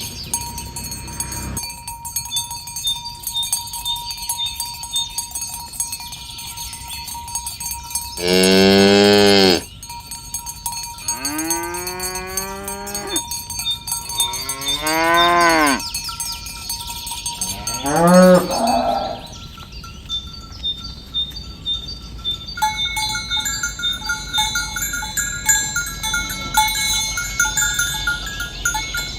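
Cattle mooing four times, long low calls, the first about eight seconds in and the loudest. Bell-like ringing tones sound throughout.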